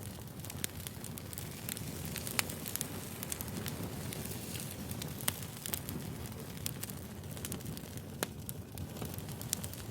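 Bonfire crackling: a steady low rumble of burning wood with scattered sharp pops and snaps, the loudest about two and a half, five and eight seconds in.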